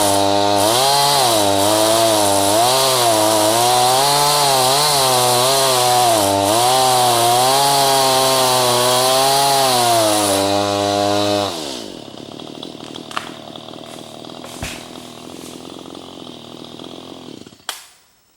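Chainsaw at full throttle cutting green ash, its pitch wavering up and down as it labours under load: a saw too small for the job. About ten seconds in it drops back to a steady idle, and near the end it cuts off.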